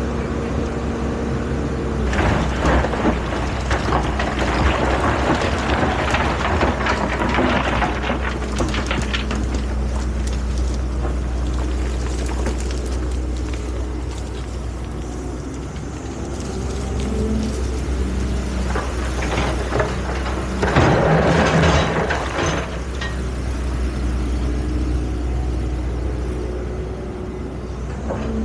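Excavator's diesel engine running steadily with a low drone, with two louder, noisier stretches of working sound, one about two seconds in lasting several seconds and a shorter one about twenty-one seconds in.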